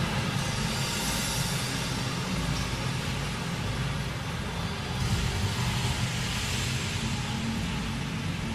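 Steady rumbling, rushing noise of a wildebeest herd crossing a river, hooves and churned water together. It grows a little brighter about five seconds in.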